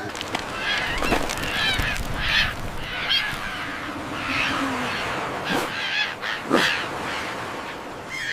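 A bird giving short honking calls over and over, with a few quick sweeping sounds in between.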